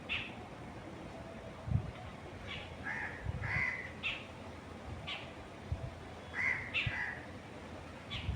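Wild birds calling: a scattered series of short calls, several of them in quick pairs, over a faint steady wind background with a few low gusts buffeting the microphone.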